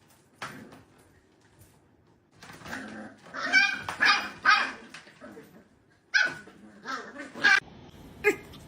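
A dog barking: a run of short, pitched barks from about a quarter of the way in to the middle, then a second run later on.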